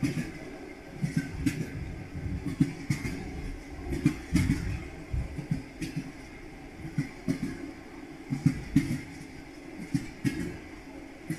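Railway carriage wheels clattering over rail joints: a steady low rumble broken by repeated knocks, often in quick pairs.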